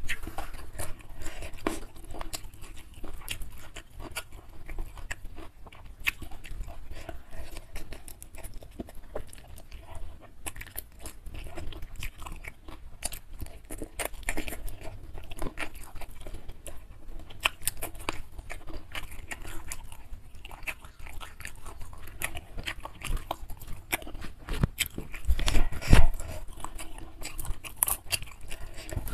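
Close-miked chewing of a mouthful of nasi padang eaten by hand, with wet clicks and crunches, between moments of fingers squishing and gathering rice on the paper-and-banana-leaf wrapping. A louder burst of crunching comes near the end.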